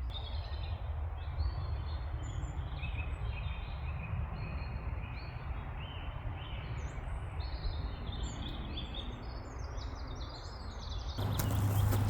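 Small birds chirping and singing in short, quick phrases over a steady low background rumble. About eleven seconds in the low rumble suddenly gets louder.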